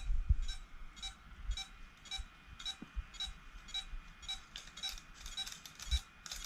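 Rapid, evenly spaced short electronic chirps, about three a second, from a water-soaked Parrot Anafi drone that is failing to take off.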